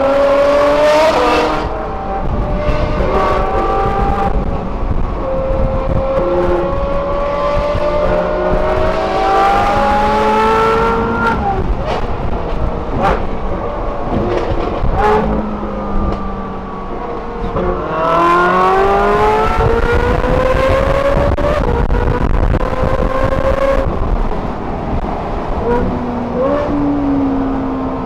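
Ferrari sports-car engines with Kline Innovation exhausts pulling hard, heard from inside the 458's cabin. The pitch climbs through the revs and drops back at each upshift, several times over, with a few sharp cracks in the middle.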